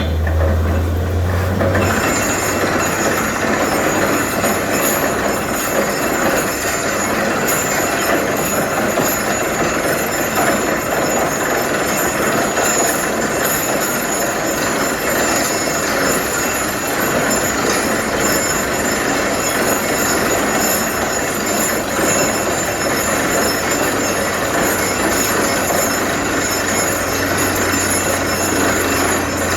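Borewell drilling rig running hard: a loud, steady rattling and hissing noise that sets in about two seconds in, as a low engine drone drops away.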